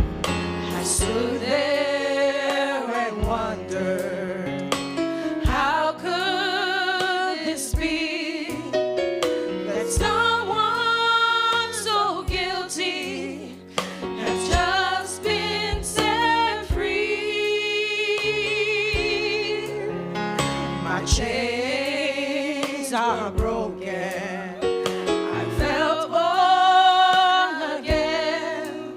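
Gospel music with sung notes held in long phrases with vibrato, over keyboard accompaniment.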